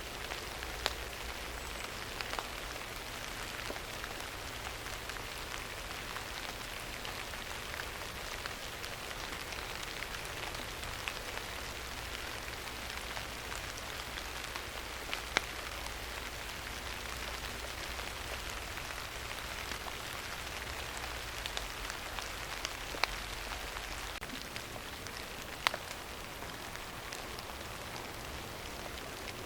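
Steady rain falling on a surface, an even patter, with a few sharp ticks scattered through it.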